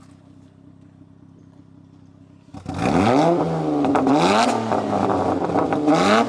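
Honda Accord V6 with a new Borla cat-back exhaust idling quietly, then revved in several quick blips from about two and a half seconds in, the exhaust note rising and falling with each one.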